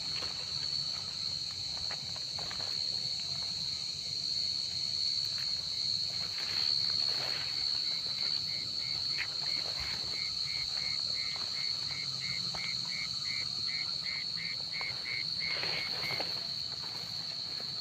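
Night chorus of crickets: a steady, high-pitched trill runs throughout. From about eight seconds in until near the end, a separate lower pulsed call repeats about three times a second.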